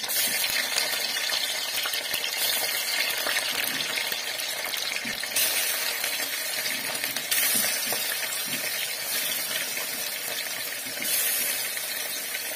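Pieces of egg sizzling as they are dropped into hot oil in a kadhai and fried, the hiss swelling a few times as more pieces go in.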